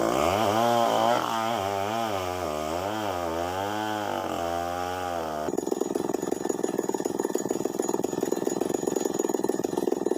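Two-stroke chainsaw engine revving up and down as it cuts, its pitch rising and falling over several seconds. About halfway through the sound changes abruptly to a steady, rapid, rattling buzz.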